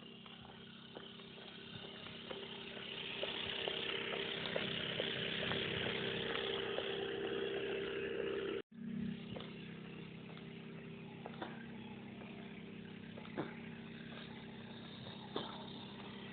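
Large four-rotor cargo drone hauling bamboo, its rotors giving a steady, pitched hum that swells over the first few seconds. The hum drops out for an instant about nine seconds in, then carries on steady and a little quieter.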